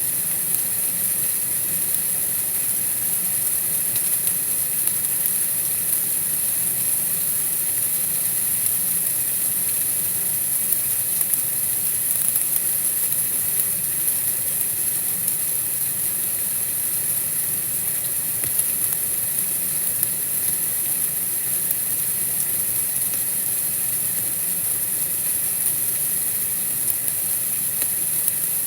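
Steady white-noise hiss, brightest in the highest pitches, unchanging throughout.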